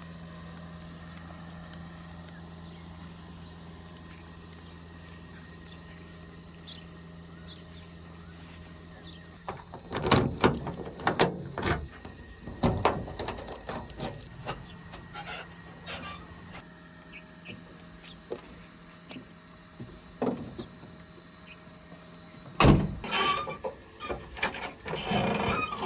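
JCB 3DX backhoe's diesel engine running steadily, then from about ten seconds in a series of loud knocks and clanks, with a few more near the end. A steady high insect buzz runs underneath.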